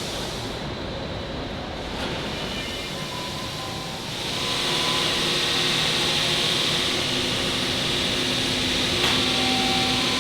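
Machinery running steadily in a precast concrete plant, with a faint hum of tones under the noise; it gets louder about four seconds in.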